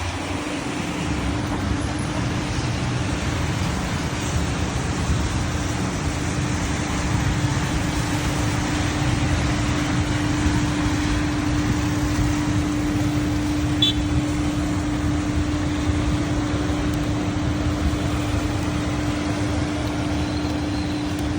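Steady motor-vehicle noise: a constant hum under an even rush of road and engine sound.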